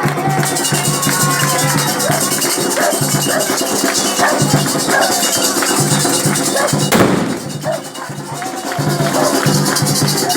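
Candomblé ritual music: a repeating drum beat, a shaken rattle and voices singing. A short loud rush comes about seven seconds in and the music drops briefly after it.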